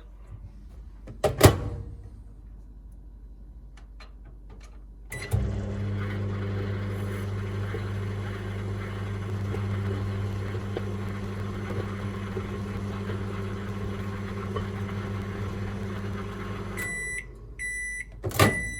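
Daewoo microwave oven test run just after a fuse and mica waveguide plate replacement: a click, a short beep as it starts, then a steady low hum for about eleven seconds as it heats a cup of water. It then stops with three short beeps, followed by a loud clack near the end.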